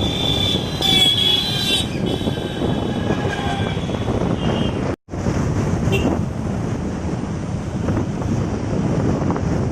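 Wind buffeting the microphone while riding a motorcycle, over steady engine and road noise. A high whine sounds during the first couple of seconds, and the sound cuts out briefly about halfway through.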